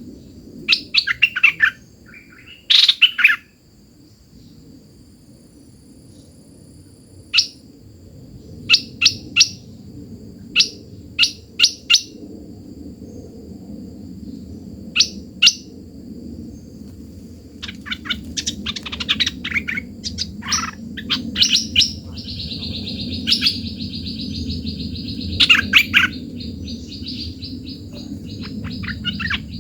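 A songbird, the decoy-trapped bird known in Vietnamese as hoạch thơm, calling with short sharp chirps in scattered groups, then singing a longer buzzy trill of a few seconds past the middle, followed by more quick chirps.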